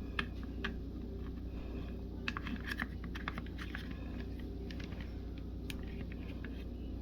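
Light, irregular clicks and taps from handling a mini waffle maker and its waffle, over a steady low hum.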